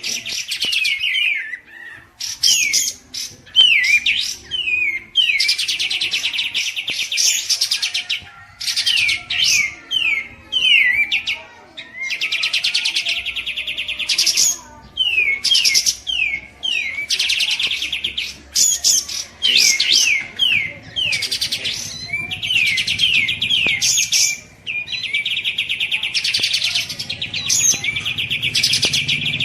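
Loud songbird song in repeated phrases, each a second or two long with brief gaps: a fast, dense trill alternating with quick runs of falling whistled notes.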